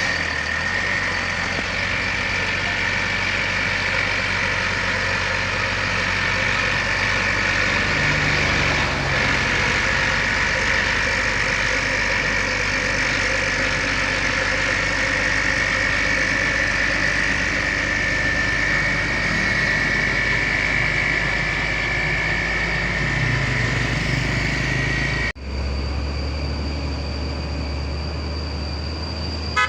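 Heavy truck engine running steadily, with a steady high whine over the engine hum. About 25 seconds in the sound cuts abruptly to another steady engine hum with a higher, thinner whine.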